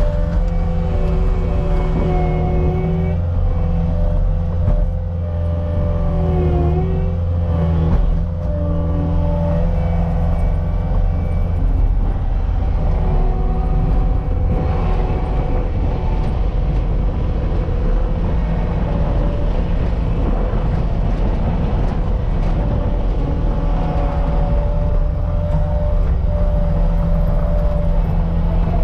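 CAT 279D compact track loader running steadily while pushing dirt, its engine a continuous low drone with a few higher tones that shift slightly in pitch.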